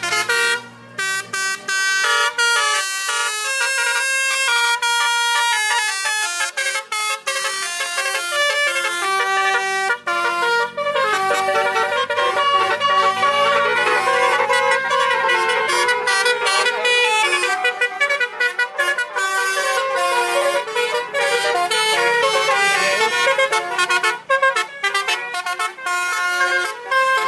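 Truck basuri (telolet) multi-tone horn playing a fast melody, a continuous run of short, stepped horn notes.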